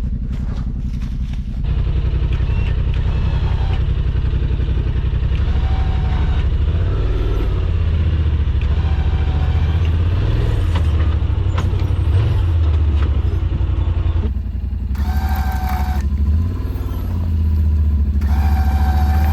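Side-by-side UTV engine running under load on a rough trail, its note rising and falling with the throttle. A short high whine comes twice near the end.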